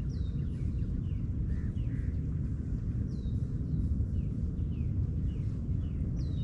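Birds calling over a steady low rumble. A high, falling whistle repeats about every three seconds, near the start, about three seconds in and at the end, with shorter falling chirps in between.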